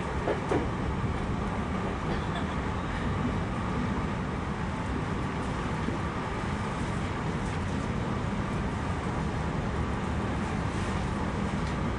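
Commuter electric train running along a station platform, heard from the driver's cab: a steady low rumble of wheels and running gear, with a couple of clicks just after the start.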